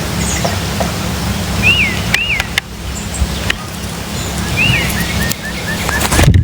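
Wild songbirds calling: clear whistled notes that rise and fall, mostly in pairs, repeating every few seconds, with a quick run of short chips about five seconds in. A steady low hum of distant traffic runs underneath.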